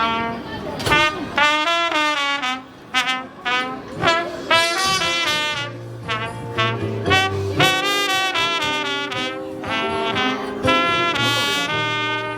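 Live band music led by brass, trumpet-like, playing a quick melody over a bass line that comes in about halfway. It is the band's instrumental lead-in before the crowd sing-along starts.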